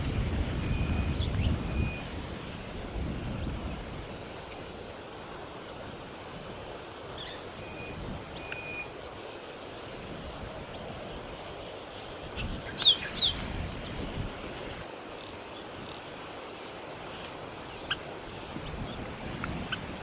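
Bird calls over a steady outdoor background with a faint high peep repeating about once a second. Two sharp, loud falling notes come about two-thirds of the way through, and a few short sharp notes follow near the end. Low wind rumble is on the microphone for the first couple of seconds.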